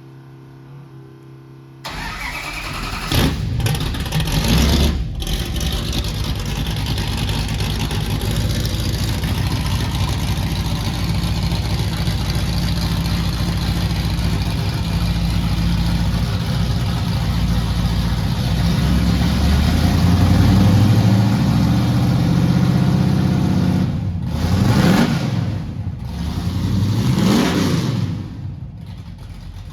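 A car engine starts up abruptly about two seconds in, revs briefly and then runs steadily. Near the end it is revved twice, its pitch rising and falling each time.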